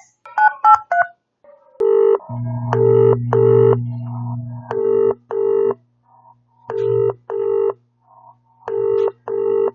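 A few quick phone keypad beeps, then a telephone ringback tone on the line: pairs of rings about every two seconds, with a low hum beneath the first rings.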